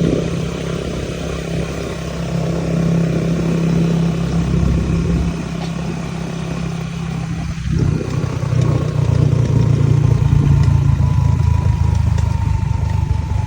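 Rice harvester's engine running steadily under load, with a brief dip about eight seconds in.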